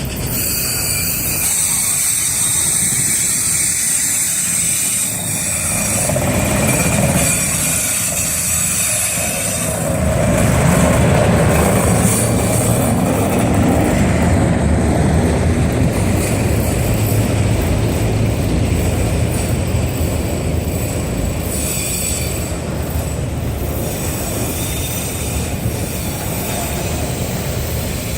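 CSX auto rack freight cars rolling past close by: a steady rumble of steel wheels on rail, with a high-pitched wheel squeal over the first half. The rumble gets heavier about ten seconds in.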